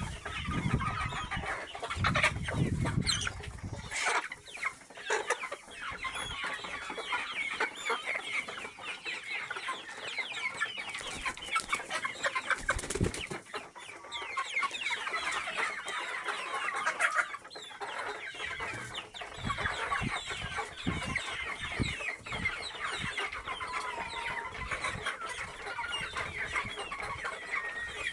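A flock of local free-range chickens clucking, with many short calls overlapping throughout. A low rumble runs under them for the first four seconds.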